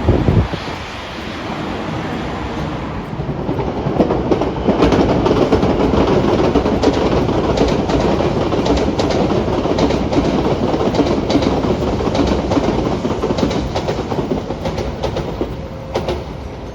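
A train passing close by, its rumble building and then fading, with a run of rhythmic wheel clacks over the rail joints. A brief thump at the very start.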